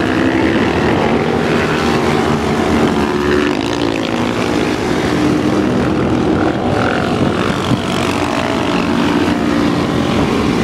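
Several motorcycle engines running as a group of motorcycles rides past, a steady loud drone of overlapping engine notes with a brief change in pitch about three and a half seconds in.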